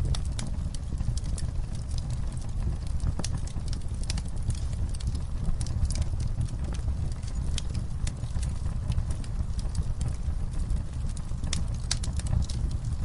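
Campfire burning: a steady low rush of flames, with irregular sharp crackles and pops from the burning wood.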